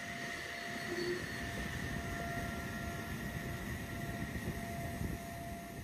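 A steady mechanical rumble with a few thin high whines over it, cutting off abruptly near the end.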